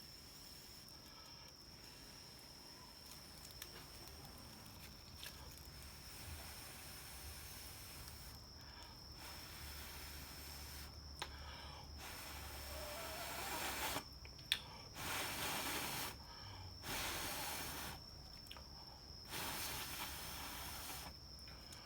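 Someone blowing on a smouldering char-cloth ember in a tinder bundle to coax it into flame. A faint hiss builds over the first half, then come about four long puffs of breath, each stopping abruptly, with a single sharp click just before them.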